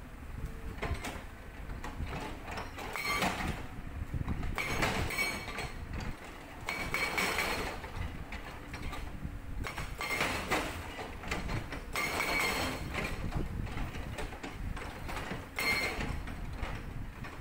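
Caterpillar 320D excavator running while its Sangdo hydraulic breaker works rock in repeated spells of about a second, with a metallic clinking, scraping ring over the engine's steady rumble.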